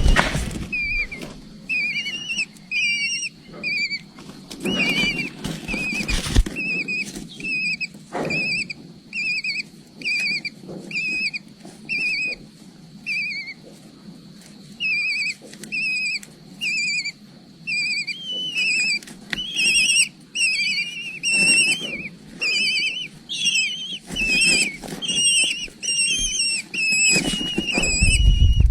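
Eagle chicks calling from the nest: a steady string of short, high whistled chirps, one or two a second, typical of begging at feeding time. A few low thumps come in now and then, louder near the end.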